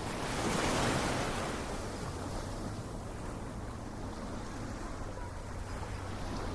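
Ocean waves breaking on a shore: a wave crashes and swells up about a second in, then washes away into a steady hiss of surf.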